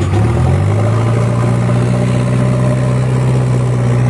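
Sonalika DI 50 tractor's diesel engine running hard at steady revs, its note rising slightly about half a second in and then holding level.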